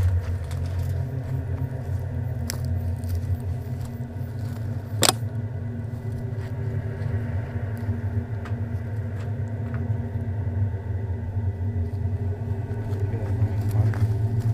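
A steady low rumble with faint steady hum tones above it, and a single sharp click about five seconds in.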